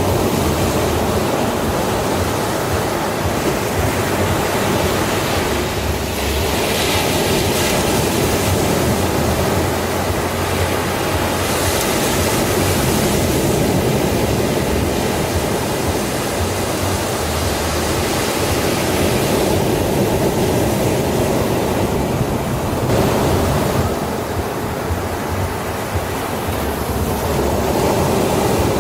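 Sea waves breaking and washing up a beach: a continuous rush of surf that swells several times as waves come in.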